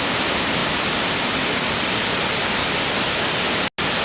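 Waterfall: a steady, even rush of falling water, broken by a split-second dropout to silence near the end.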